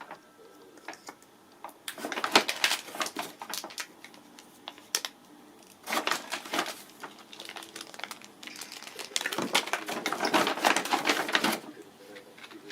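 Rustling and clicking of packaging and small stationery items being handled, in three bursts with quieter gaps between them.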